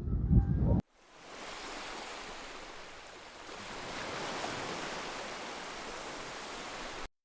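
Sea waves washing on a shore, an even rushing noise that fades in after a sudden cut. It is preceded by a brief louder low rumble that stops abruptly under a second in, and the sound cuts off sharply just before the end.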